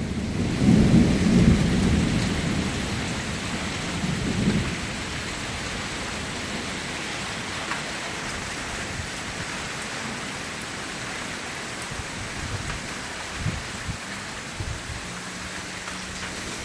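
Thunder rumbling for the first four or five seconds and then dying away, leaving steady rain falling.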